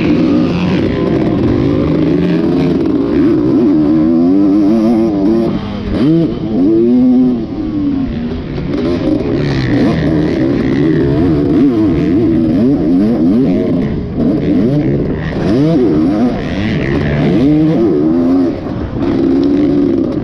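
Dirt bike engine being ridden hard, its pitch climbing and falling again and again as the throttle is worked and the gears change.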